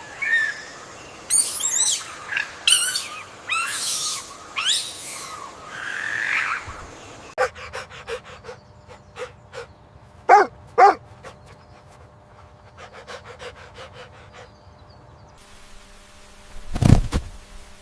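Animal calls in several short clips: a run of high, sweeping chirps, then quick clicks with two short, sharp calls about ten seconds in, and a brief loud burst near the end.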